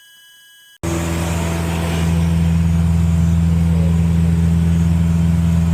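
A steady electronic tone cuts off, then a Cessna 150's Continental O-200 four-cylinder engine drones steadily in flight, heard loud from inside the cockpit, growing slightly louder about two seconds in.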